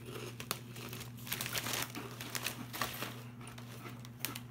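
Plastic snack bag of popped potato crisps crinkling as it is handled, in irregular crackles.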